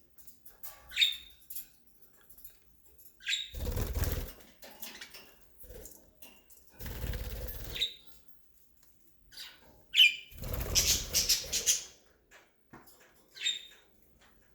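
Budgerigars fluttering their wings in three short bursts, with several short chirps in between.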